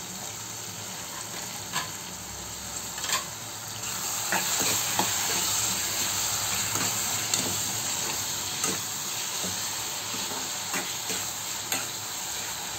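Briefly boiled mushrooms sizzling in hot oil in a frying pan with tomato and onion, stirred with a metal spoon that clicks and scrapes against the pan now and then. The sizzle grows louder about four seconds in.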